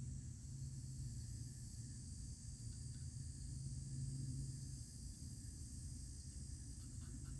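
Faint steady outdoor background: a high, even insect-like chirring over a low hum.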